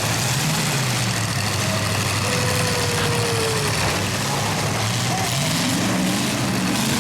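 Demolition derby cars' engines running together, with several revving up in the last couple of seconds.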